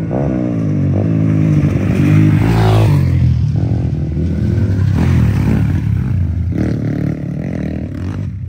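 Motorcycle engine running under varying throttle on a rough offroad track, its pitch rising and falling; a clear rev climbs about two to three seconds in.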